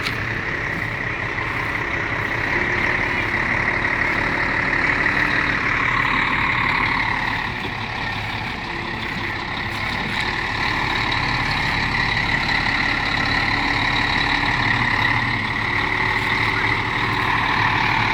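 Heavy diesel engine running steadily, with a hissing mechanical drone that swells and eases a little.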